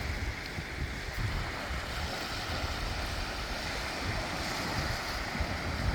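Steady outdoor wind and water noise: a hiss of waves with wind buffeting the microphone in uneven low rumbles.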